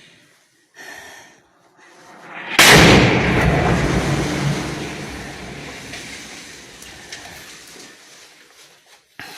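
A strike explodes close by about two and a half seconds in: a sudden loud blast whose deep rumble rolls on and slowly dies away over several seconds.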